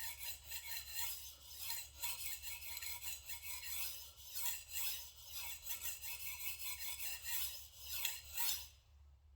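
Kitchen knife blade being stroked back and forth on a whetstone, a repeated gritty rasping about one to two strokes a second that stops shortly before the end. The strokes are on the knife's heel section, raising a burr.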